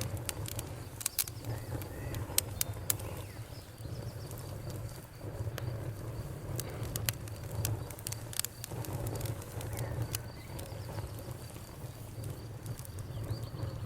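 Bonfire crackling: irregular sharp pops and snaps over a low steady rumble of the flames, with a faint steady cricket trill above.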